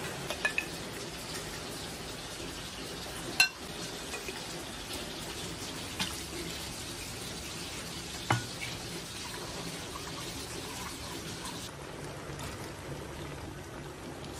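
Steady water noise, broken by a few sharp knocks; the loudest knock comes about three and a half seconds in and another about eight seconds in.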